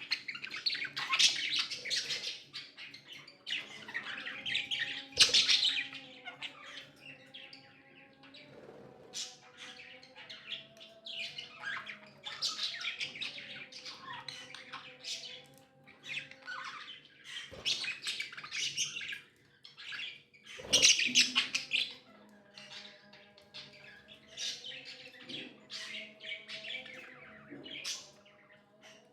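Pet budgies chirping and chattering in a continuous flock warble of quick, high chirps and squawks, with louder bursts near the start, about five seconds in and about two-thirds of the way through.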